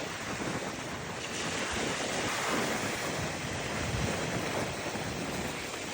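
Ocean waves breaking and washing on a beach, a steady rushing surf that swells and eases gently, with some wind noise on the microphone.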